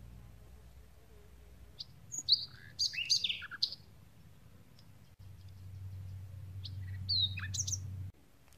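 Songbird chirping in two quick bouts of short, high notes, the second a few seconds after the first, over a low steady rumble that cuts off suddenly near the end.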